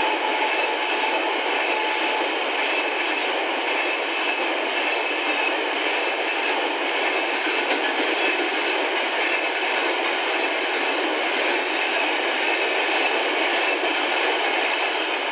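LHB passenger coaches and parcel vans of an Indian express train rolling past, a steady rushing of wheels on rail. A thin whine runs through the first two seconds, and the rumble starts to fade as the last vans go by near the end.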